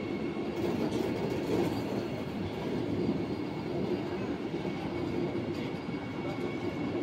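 Vande Bharat Express electric trainset rolling along the platform: a steady rumble of wheels on rail, with a faint steady high whine running through it.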